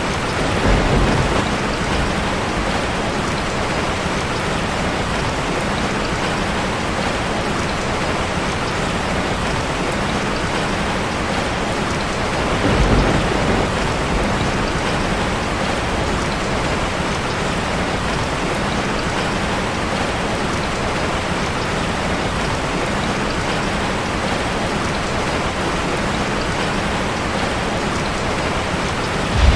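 Steady, dense rain drumming on a metal roof. Two brief low rumbles rise out of it, about a second in and again about halfway through.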